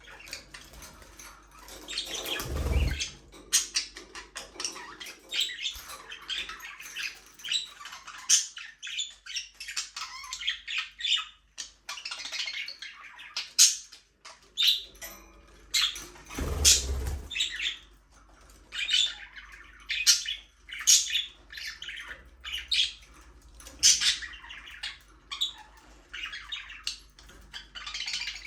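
A group of budgerigars chirping and chattering continuously in quick, short calls, with occasional squawks. Two brief low thumps break in, about three seconds in and again about halfway through.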